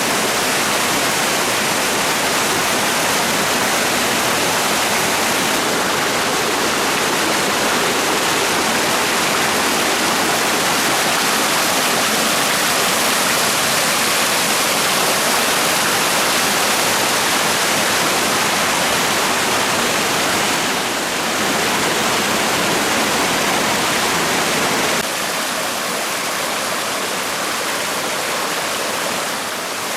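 Waterfall rushing and splashing in a steady, dense roar of water, a little quieter for the last few seconds.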